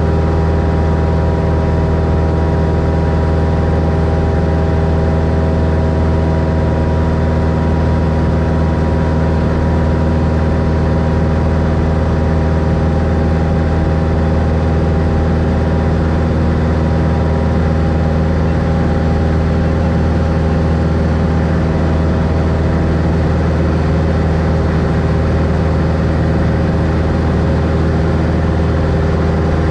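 A 1964 Cessna Skylane's six-cylinder piston engine and propeller running steadily at constant power, a loud, even drone with no change in pitch.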